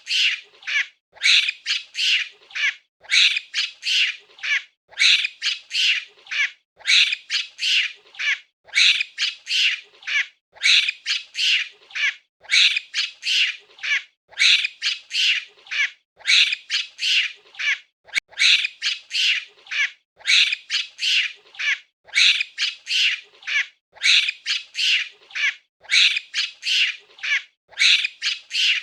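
Monkey giving shrill, squawking calls in bursts of several quick calls, one burst about every two seconds.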